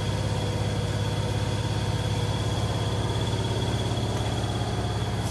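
Steady low machine hum with a faint, constant high whine, running unchanged throughout.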